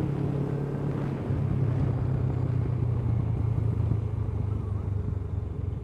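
Honda CBF500 parallel-twin engine running steadily after being started with help from an external booster, as its own battery and charging system are failing. Its tone shifts slightly about a second in.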